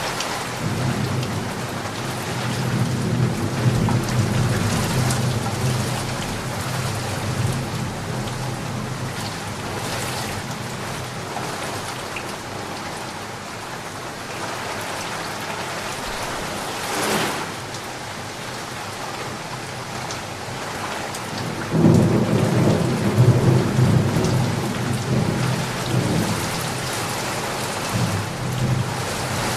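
Steady rain falling, with two long rolls of thunder: the first rumbles through the opening seconds, and the second breaks in suddenly about 22 seconds in and is the loudest part.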